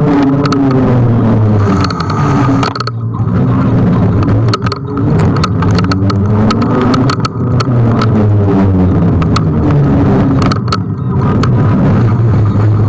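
Road noise from a moving ride among traffic: a steady low hum that slides up and down in pitch under a noisy rush, with many short sharp clicks.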